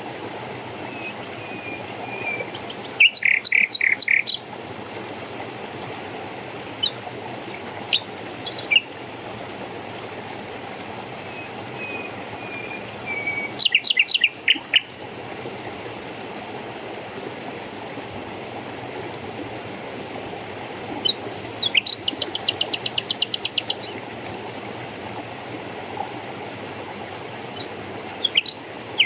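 Songbirds calling in short bursts of quick, high chirps, three louder bursts with one fast trill late on, over a steady rushing of running water.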